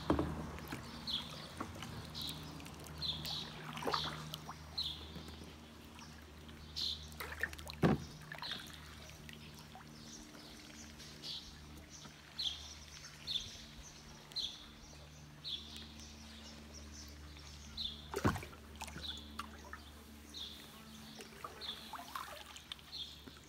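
A bird calling over and over with short, slightly falling chirps, about one a second, over a faint steady low hum. A few sharp knocks, the loudest about eight and eighteen seconds in.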